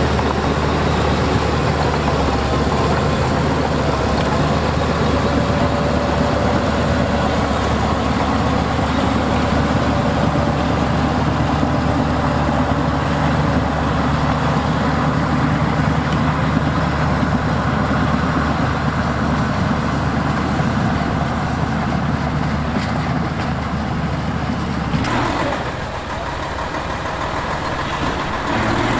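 Heavy diesel construction machinery running steadily with a low, even engine hum. About 25 s in, the sound changes abruptly and drops a little in level. Near the end a different engine note rises.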